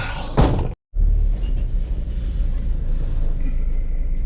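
A loud knock, then, after a sudden cut, the steady low rumble of a van driving along the road.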